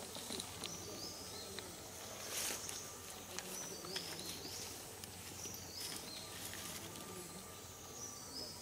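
Quiet forest ambience: a bird repeats a short, high, stepped call every two seconds or so over a steady background hiss, with a few faint clicks and rustles.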